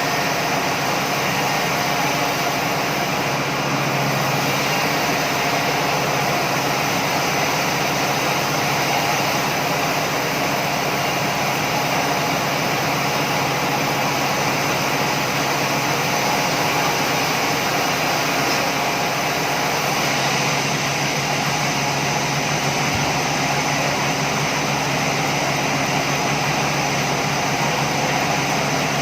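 Sawmill machinery running steadily: a dense, even mechanical noise over a low engine-like hum, with no change in pitch or level.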